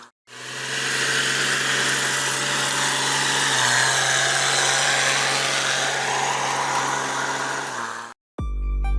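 A vehicle engine running steadily under a heavy hiss, cutting off suddenly just after eight seconds; music with a heavy bass beat starts right after.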